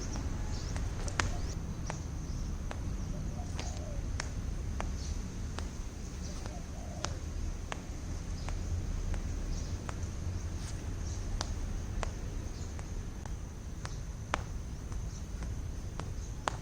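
A rope striking the ground in sharp, fairly regular ticks about every 0.7 seconds, over a steady low rumble. Small birds chirp now and then.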